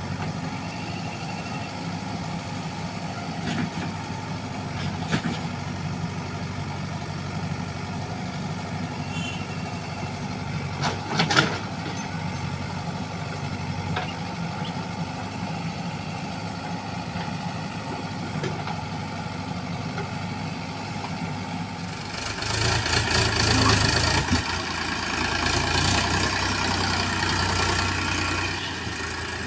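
Heavy vehicle's diesel engine idling steadily. From about two-thirds of the way in it gets louder for several seconds, with more clatter and hiss.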